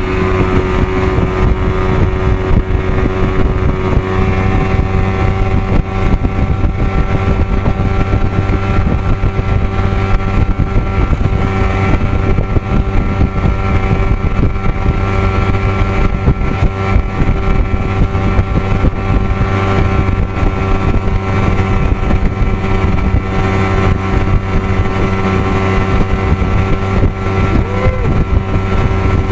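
Evinrude 55 hp two-stroke outboard motor running steadily with the boat under way, its pitch holding level, with wind noise on the microphone.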